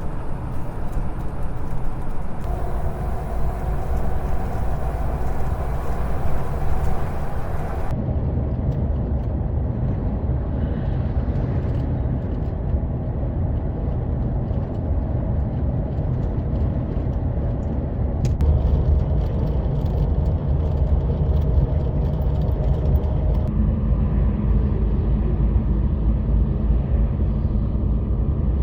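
Semi-truck running on the road: a steady low engine and road rumble, whose character changes abruptly a few times.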